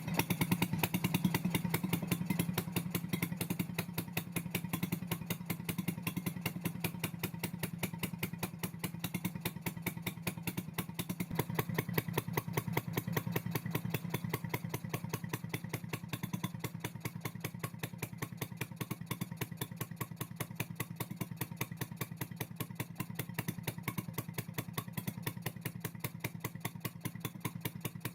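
Vintage Stuart Turner P5ME single-cylinder two-stroke marine engine running steadily after starting, with a fast, even beat of firing strokes.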